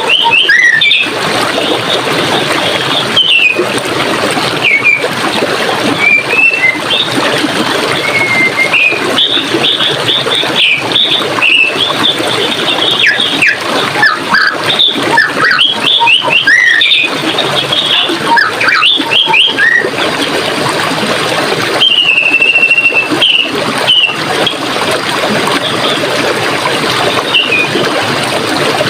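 Water running and splashing in a steady, crackling rush, with small birds chirping over it in short calls and one longer whistled note a little past the middle.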